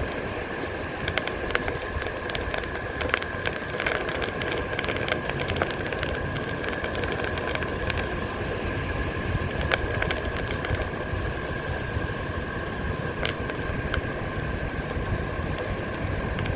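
Onewheel electric skateboard rolling along the beach, its tyre crunching shells in scattered sharp clicks over a steady high whine. Wind rumbles on the microphone, with surf noise behind it.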